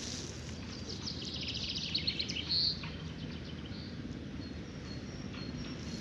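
Small songbirds chirping, with a quick run of rapid high twittering about one to three seconds in and scattered single high notes elsewhere, over a steady low outdoor background noise.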